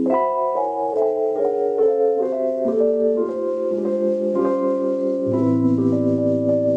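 Keyboard with a piano sound playing a jazz chord introduction. A string of chords moves on every half second or so, then settles on a held chord, and a low bass note comes in under it about five seconds in.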